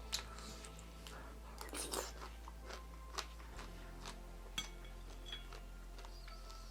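Close-up chewing of a mouthful of fruit cereal, pomegranate seeds and berries in coconut water, with scattered small wet crunches.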